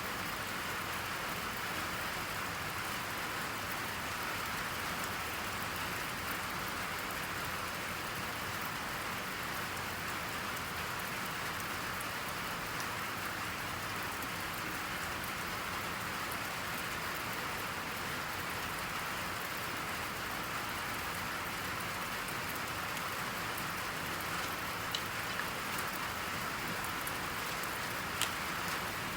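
Steady rain falling, an even hiss of rain on a surface, with a few faint ticks near the end.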